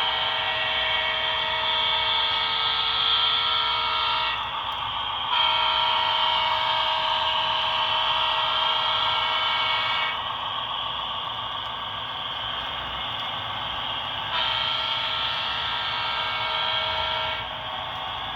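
Sound-equipped HO-scale model diesel locomotive sounding its multi-chime air horn through its small onboard speaker: three long blasts with pauses between them, over a steady low rumble.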